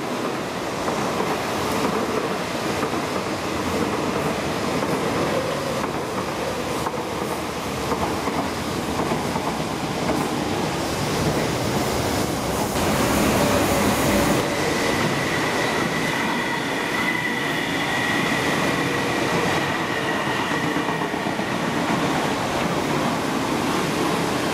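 MTR East Rail Line electric multiple-unit trains running on the track, a steady rumble of wheels on rails. The sound changes abruptly about halfway through, and from then on a steady high whine sits over the rumble.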